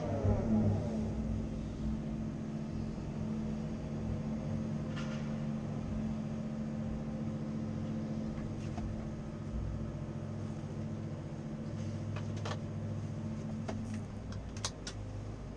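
Cat 330 Next Generation excavator's diesel engine running steadily, its revs dropping just at the start. A few sharp metallic clicks and knocks come near the end.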